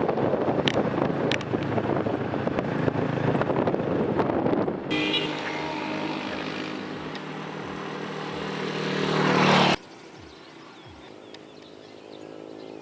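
Wind buffeting the microphone, then after a sudden cut a vehicle engine running steadily and growing louder before cutting off abruptly about ten seconds in; a quieter stretch follows.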